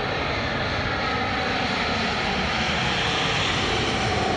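Jet engines of an Airbus A320 airliner coming in to land: a steady, even rush of engine noise with a faint tone sliding slowly downward.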